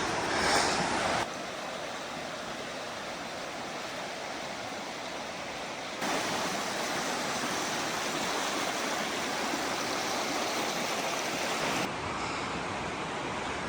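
River water rushing steadily, its loudness stepping up or down abruptly a few times.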